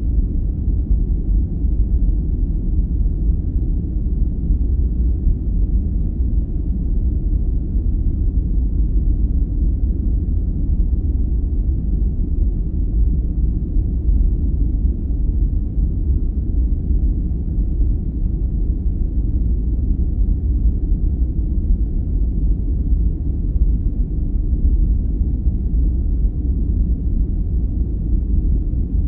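Steady, deep, rumbling ambient noise of a sleep-aid noise track. It is dark and muffled, with little hiss, and runs evenly without change.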